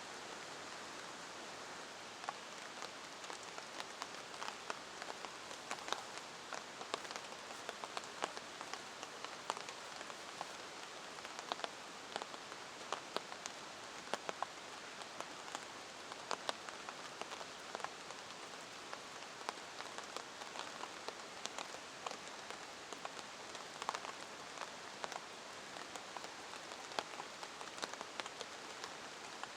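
Steady rain falling, with heavy drops tapping sharply and irregularly on a nearby surface from about two seconds in.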